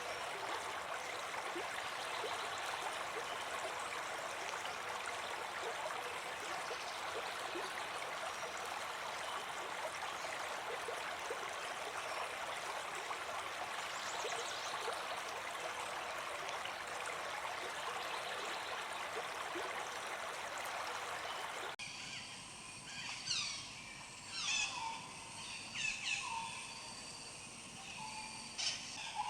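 Steady rush of running water, like a stream. About twenty-two seconds in it cuts off abruptly, and a series of short, sharp bird calls follows, each sweeping downward in pitch.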